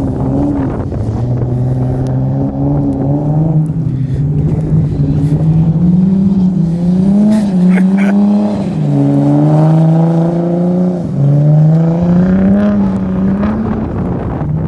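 Nissan R32 Skyline GTS-t's turbocharged straight-six revving up and down as the car drifts on snow. The revs climb through the first half, fall sharply about nine seconds in, climb again, drop about two seconds later, then rise once more.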